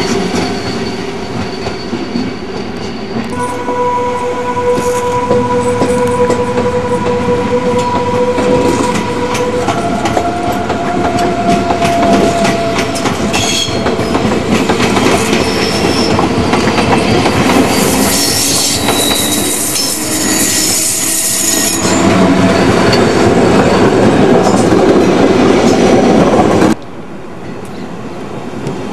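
Electric passenger trains, among them an SBB Re 460 locomotive with double-deck coaches, rolling through the station: wheels clattering over rail joints and squealing with long, steady tones, which rise higher in the middle. The loudness drops abruptly near the end.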